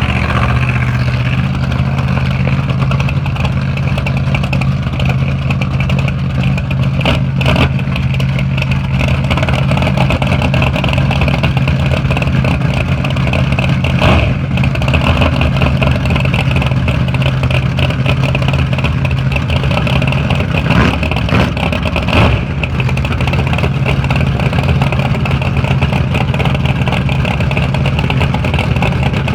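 Drag race car engine idling steadily, with a few brief clatters.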